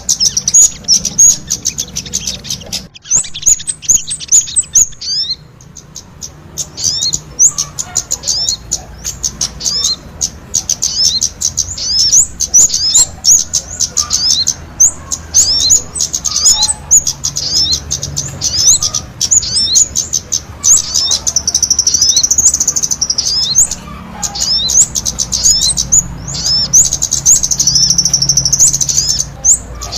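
Kemade and sogon songbirds chirping energetically, in dense runs of short, high, quickly falling notes with a brief pause about five seconds in.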